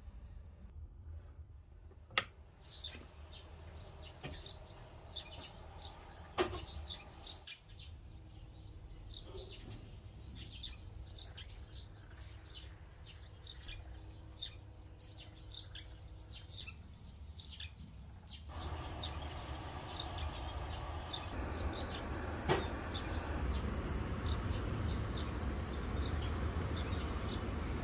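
Small birds chirping outdoors, many quick high chirps over a steady low background rumble that grows louder after about eighteen seconds, with a few sharp clicks.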